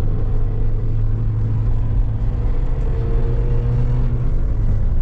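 An engine running steadily, a loud low hum with a few fainter steady tones above it.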